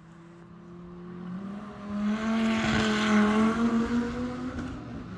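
Dodge Viper's V10 engine running at a steady note as the car drives past on the circuit, growing louder to a peak about three seconds in and then fading away.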